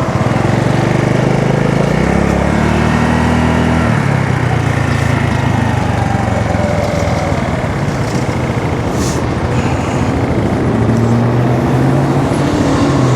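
Honda Navi's small single-cylinder engine running under way, with wind and road noise. The engine note rises about two seconds in and settles back down about two seconds later.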